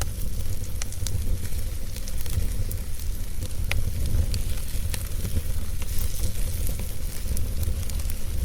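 Wood fire crackling, with scattered sharp snaps and pops over a steady low rumble.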